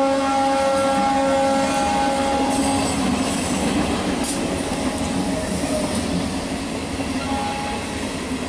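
Electric multiple unit local train passing at speed, its horn holding one long steady blast that fades out about two seconds in, over the continuous running noise of the coaches on the rails.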